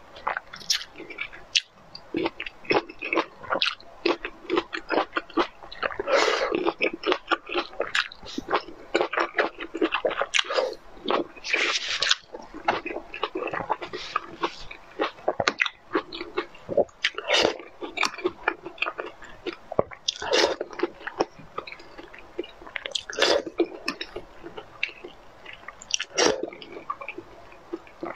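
Close-miked eating on a lapel microphone: wet chewing, smacking and squishing mouth sounds, with a cherry tomato being bitten as it begins. Dense short clicks run throughout, with louder bursts every few seconds.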